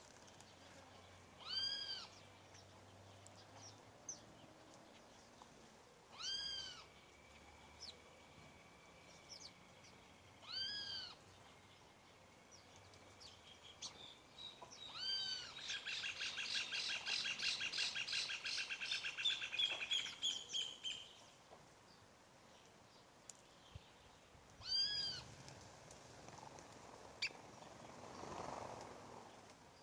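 Bird calls: a short, arched, mewing note repeated five times, a few seconds apart, and a rapid chattering trill lasting about five seconds in the middle.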